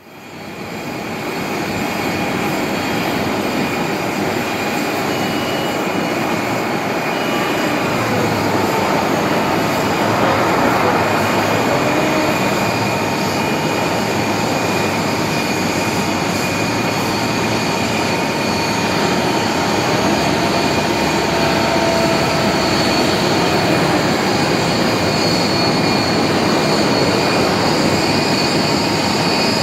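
Boeing 737-800's CFM56 jet engines running, a steady high whine over broad rushing noise, fading in over the first second.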